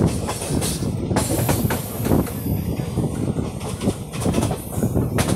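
Indian Railways passenger coach running at speed, heard from its open doorway: wheels clattering and knocking over rail joints and pointwork without a break.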